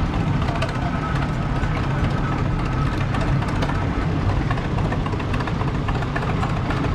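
Oliver Row Crop 88 tractor engine running steadily at low speed as the tractor rolls past.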